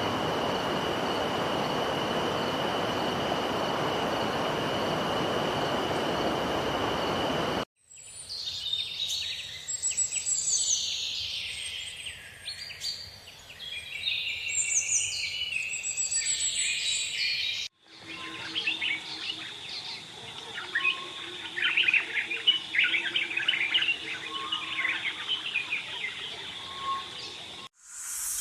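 Nature ambience in three spliced sections. First an even rush of running water. Then, after an abrupt cut, a mix of high bird chirps and trills, followed by a denser bird chorus over a steady high insect-like drone.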